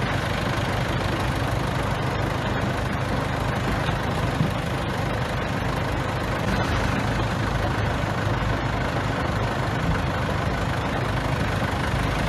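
Heavy diesel engine of a bulldozer running steadily, with a single brief knock about four seconds in.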